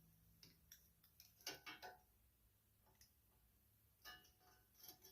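Faint clicks and light taps of small metal and plastic parts being handled as a carburetor is worked into place on a mower engine: one cluster of clicks about a second and a half in, with single clicks before and after.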